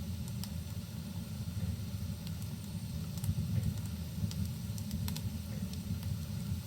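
Wood fire crackling in a fireplace: scattered sharp pops and ticks, several of them around three to five seconds in, over a steady low rumble.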